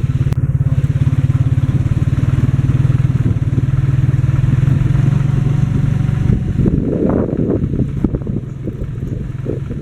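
Small motorcycle engine of a Philippine tricycle (motorcycle with sidecar) running steadily under way. About two-thirds of the way through, its steady note eases and turns uneven.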